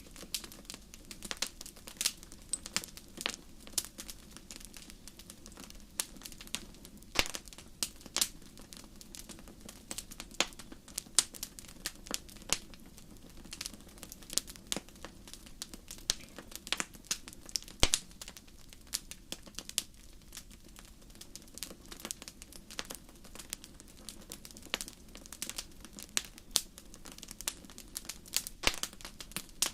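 Campfire crackling: irregular sharp pops and snaps, several a second, over a low steady rush of the burning fire.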